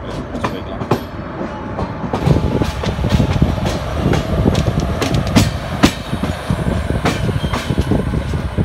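Passenger train running: a steady rumble of wheels on track with irregular clattering knocks as the coach's wheels pass over rail joints and points, louder from about two seconds in.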